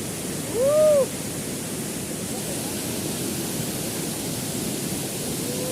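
Steady rush of a waterfall. About half a second in, a short voice call that rises and falls in pitch briefly sounds over it.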